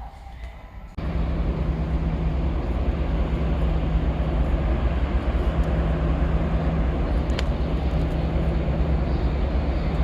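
A large engine running steadily: a loud, even, low drone with a constant hum. It starts abruptly about a second in, and there is a single short tick near the end.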